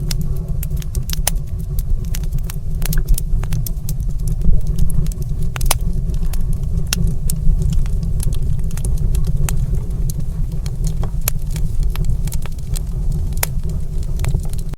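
Wood fire in a stone fireplace crackling, with sharp irregular pops scattered through, over a steady low rumble.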